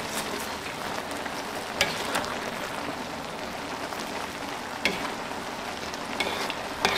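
Saucy instant noodles and vegetables sizzling in a wok with a steady hiss while a spatula stirs and scrapes through them. There are a few sharp clicks as the spatula knocks against the pan, around two seconds in, near five seconds and near the end.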